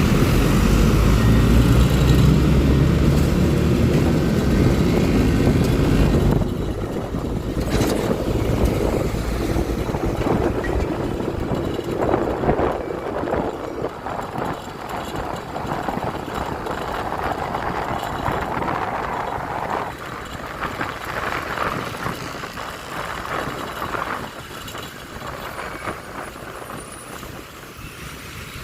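Road traffic heard from a moving motorcycle. A heavy truck engine runs close by with a loud low rumble for about the first six seconds, then drops away, leaving lighter mixed traffic noise that fades toward the end.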